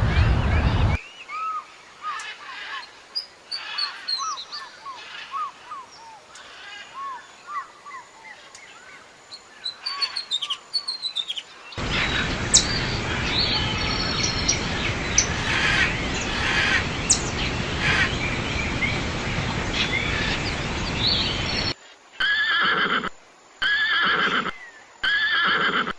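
Small birds chirping and singing, in two stretches with different background noise. Near the end, a horse neighs in a run of short repeated calls with gaps between.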